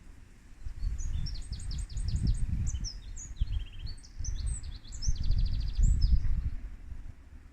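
A small bird singing a quick series of high chirps and rapid trills for about five seconds, over wind rumbling on the microphone.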